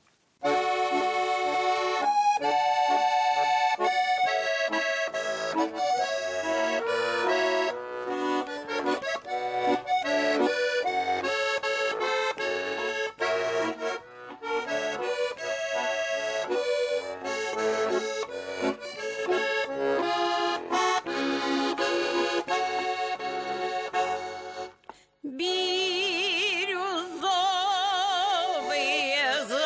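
Accordion playing the instrumental introduction to a Russian folk song, with a steady melody and chords. About 25 seconds in, after a brief break, singing voices with a strong vibrato come in over the accordion.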